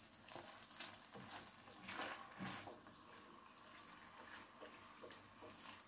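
Chicken pieces frying faintly in oil in a non-stick pan, a soft sizzle, with a silicone spatula pushing and turning them in a few brief scrapes.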